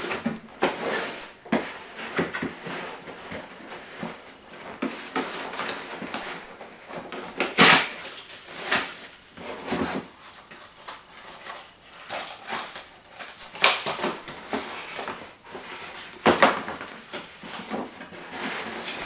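Cardboard box and packaging being handled and opened: irregular scrapes, rustles and knocks, the loudest about eight seconds in.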